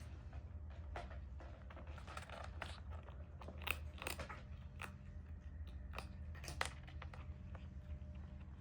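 A kitten eating, chewing its food with irregular crunchy clicks; the sharpest come a little under four seconds in and again at about six and a half seconds.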